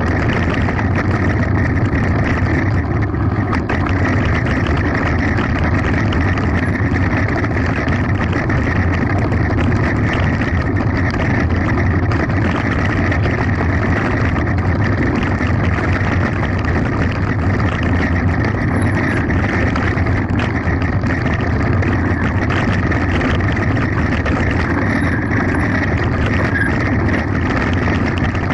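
Steady, loud rumble of a mountain bike descending a gravel forest road at speed: tyres running over gravel and the bike rattling, mixed with wind noise on the microphone.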